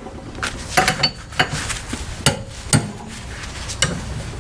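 About six irregular sharp metallic clinks and knocks from a mower deck spindle's shaft, nut and tools being handled while the shaft is swapped out.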